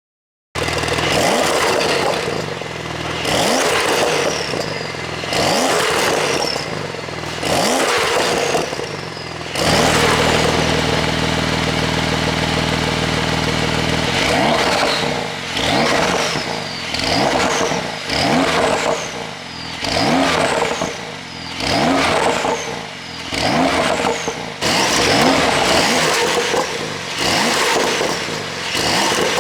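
Porsche 911 Turbo S twin-turbo flat-six exhaust revved in repeated short blips, each rising and falling in pitch. A steady idle of a few seconds sits in the middle, between the two runs of blips.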